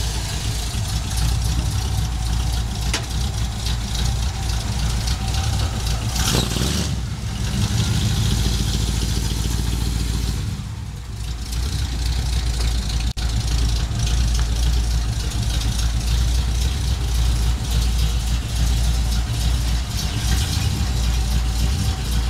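1958 Chevrolet Apache pickup's 350 small-block V8 running at idle just after start-up, steady, with a brief dip in the sound about halfway through.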